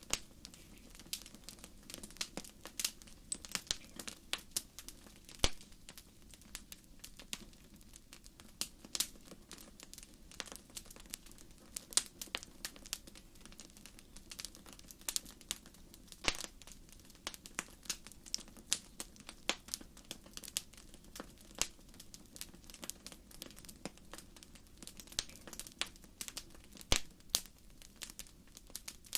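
Wood fire crackling, with dense irregular snaps and pops over a low steady rumble of the flames, a few louder pops standing out.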